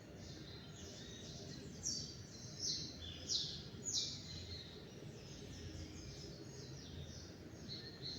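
Small songbirds singing: a run of short, high chirps that sweep downward in pitch, densest and loudest about two to four seconds in, over a low steady background rumble.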